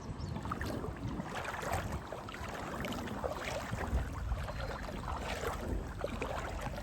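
Shallow river water splashing and sloshing in many small, irregular splashes, over a low rumble.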